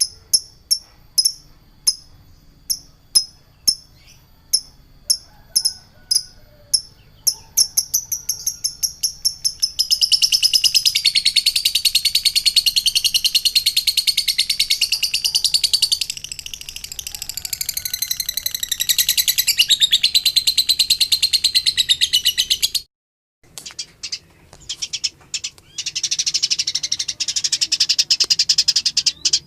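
Recorded songbird calls: sharp high chirps repeated about twice a second, quickening, then a dense, fast trill of high notes from about ten seconds in. There is a brief break a little past twenty seconds, then a few clicks, and the rapid trilling starts again.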